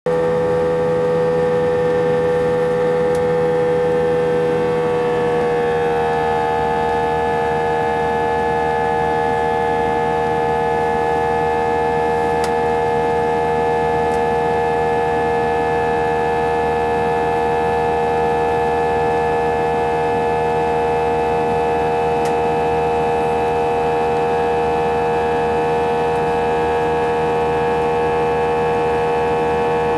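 Airbus A320 engine noise heard inside the passenger cabin: a loud, steady droning tone with strong overtones, its pitch dropping slightly about five seconds in and then holding. The noise is abnormally loud and comes with a strong vibration, which passengers took as a sign that something was not right.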